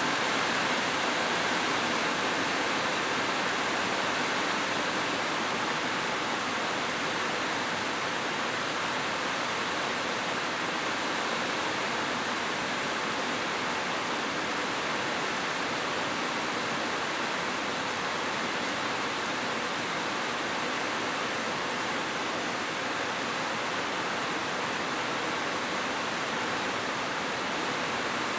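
Heavy rain falling, a steady even hiss with no separate drops or thunder standing out.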